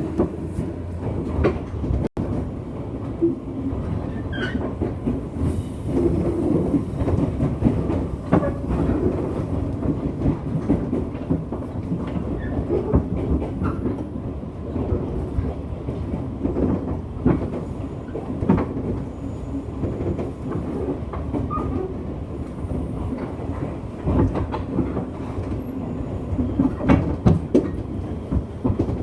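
Cabin sound aboard a JR West 201 series electric train running along the track: a steady rumble of wheels on rail with irregular clacks from rail joints.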